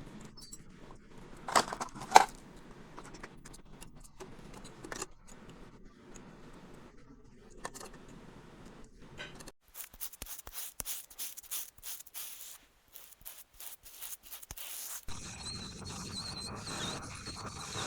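Small hand tools clicking, tapping and scraping on phone parts during a bench repair, with two loud clicks about two seconds in and a quick run of clicks in the middle. A steady hiss sets in near the end.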